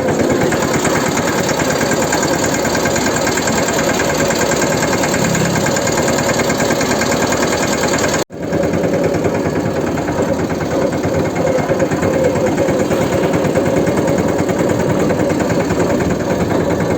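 Mahindra 215 mini tractor's single-cylinder diesel engine running steadily, with a brief gap about eight seconds in.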